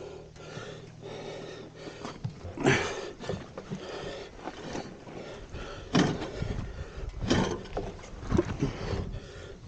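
A stuck vehicle's engine revving in several loud surges while trying to drive free, over a steady low running hum.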